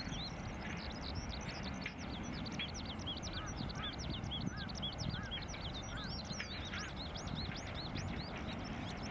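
A flock of birds calling all at once: a dense, continuous chatter of many short, high calls sweeping up and down. A lower call repeats about twice a second through the middle.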